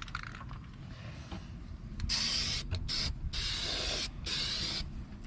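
Aerosol spray can spraying in a run of short hissing bursts, starting about two seconds in and stopping near the end.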